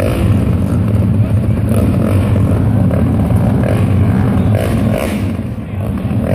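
Small pit bike motorcycle engines running loudly and steadily, dipping briefly near the end.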